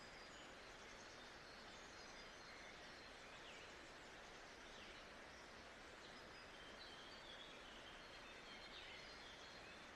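Faint nature-sounds ambience: a steady hiss with scattered short bird chirps.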